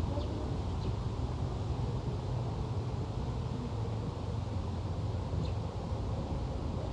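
Steady low wind rumble on the microphone outdoors, with a few faint short bird chirps scattered through it.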